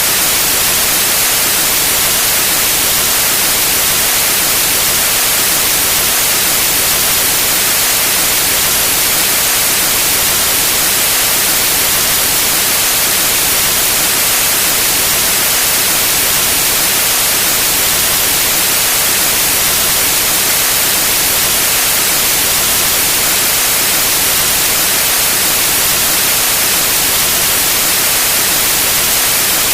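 Steady, loud white noise: an even hiss across the whole range, brightest in the treble, unchanging throughout.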